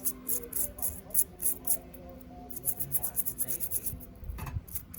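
Quick repeated rubbing strokes, about five a second, broken by two short pauses: a part being scrubbed or abraded by hand.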